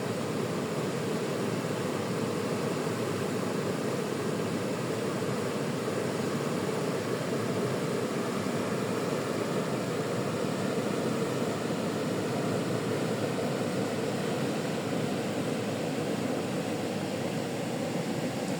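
River water flowing, a steady, unbroken rushing sound weighted toward the low end.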